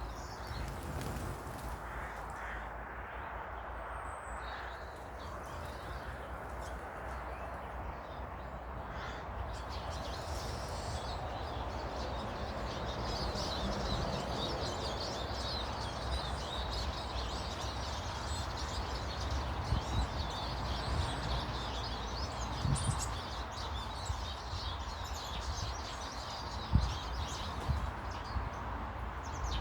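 Garden birds chirping and calling continuously over a steady low rumble, with a couple of sharp knocks near the end.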